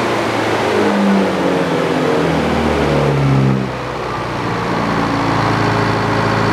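Portable sawmill's engine running, its pitch shifting and sliding down over the first few seconds. About four seconds in it dips slightly in loudness, then runs on steadily.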